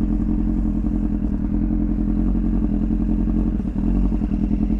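Kawasaki ZX-9R sport motorcycle's inline-four engine running steadily at low, even revs while ridden slowly, with a brief dip in level about three-quarters of the way through.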